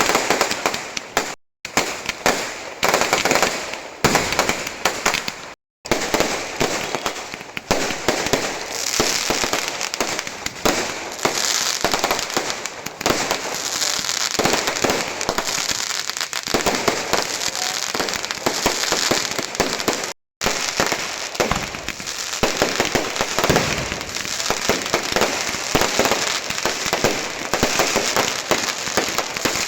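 Fireworks going off in a dense, continuous crackle of many small bangs and pops, broken by a few very short silent gaps.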